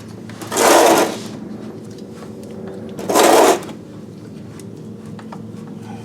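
Two short, loud bursts of a whirring, rattling mechanical noise, each about half a second long and roughly two and a half seconds apart, over a steady low hum.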